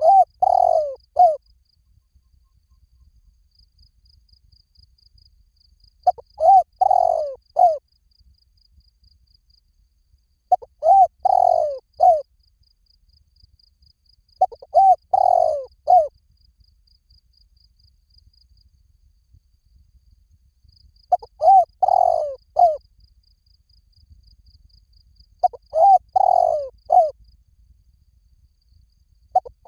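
A spotted dove singing its cooing song. Each phrase is a few short coos around a longer central coo and lasts under two seconds, and the phrase is repeated about every four to six seconds.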